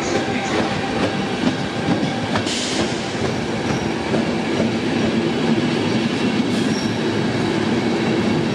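Intercity passenger train rolling into the station at platform 1, with a steady rumble of wheels on the rails. A thin squeal stops a little over two seconds in, and a short hiss comes just after.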